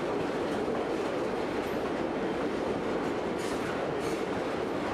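Narrow-gauge passenger train rolling along the track, a steady rumble of wheels on rail with a few light clicks in the second half, heard from a moving car.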